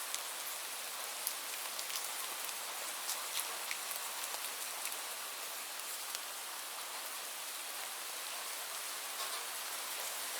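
Steady rain falling, an even hiss with individual drops clicking sharply here and there.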